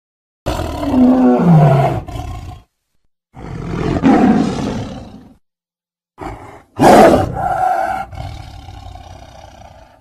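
Tiger roaring: three loud roars separated by short silences. The first falls in pitch, a short grunt comes just before the third, and the third fades out slowly.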